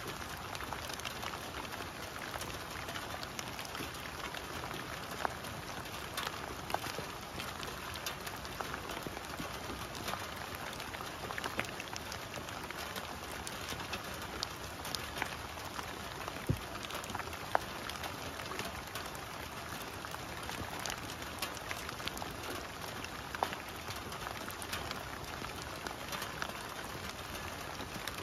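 Steady rain falling on fallen leaves and wet grass: an even patter with scattered sharper taps of single drops.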